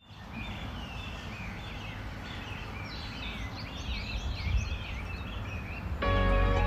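Several wild birds singing, with quick wavering chirps and trills, over a steady low outdoor background noise. Gentle background music begins about six seconds in.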